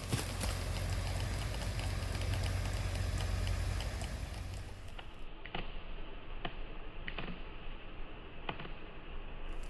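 Truck engine running at a low, steady rumble that fades away about halfway through, with scattered light clicks and snaps over it.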